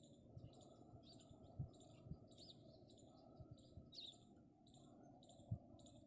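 Faint birds chirping repeatedly, many short sliding calls one after another, under a faint steady hum. Three dull low thumps stand out, about a second and a half in, at two seconds, and near the end.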